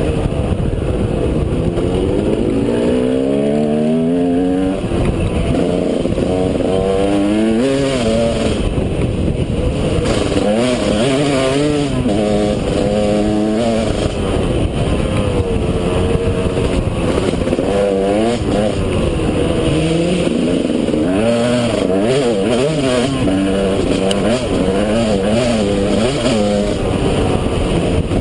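KTM 200 EXC two-stroke dirt bike engine under way, its pitch repeatedly climbing and dropping back as the throttle is opened and shut.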